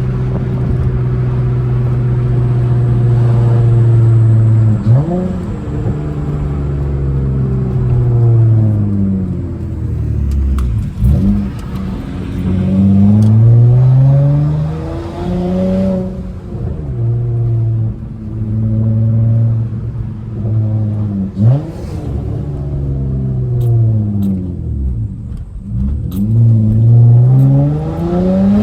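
Straight-piped V6 of a manual Honda Accord, loud throughout, revving up and down while driving. Its pitch climbs, holds and falls several times, dropping suddenly now and then as at gear changes.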